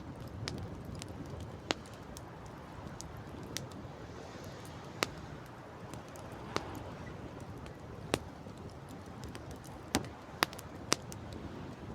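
Wood campfire crackling, with sharp pops every second or so, over a steady low rush.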